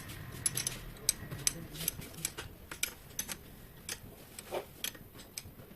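Light, sharp metallic clicks and taps at an irregular pace, from hand tools and parts being worked on a scooter engine's cylinder head.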